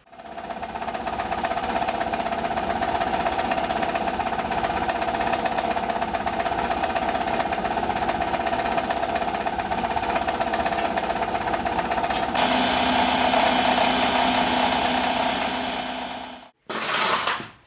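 Abrasive blaster running: a long, steady blast that changes tone about twelve seconds in, stops, then one short final blast near the end.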